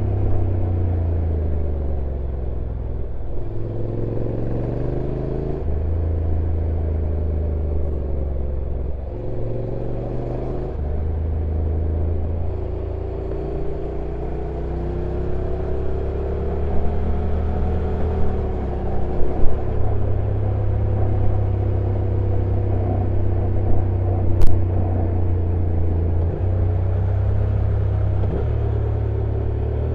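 Honda NC750X parallel-twin motorcycle engine heard from on board while riding downhill. Its engine note steps up and down every few seconds as the dual-clutch transmission changes gear, over wind and road rumble. A few sharp knocks come in the second half.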